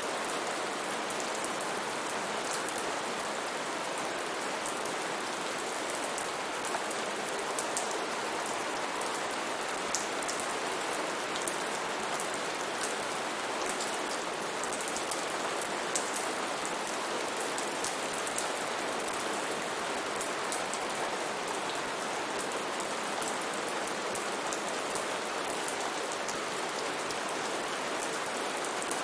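Steady rainfall with a dense hiss and many close, crisp drops ticking on nearby surfaces.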